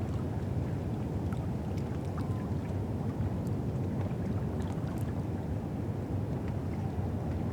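Steady low rumble and wash of River Thames ambience from the foreshore, with faint scattered ticks.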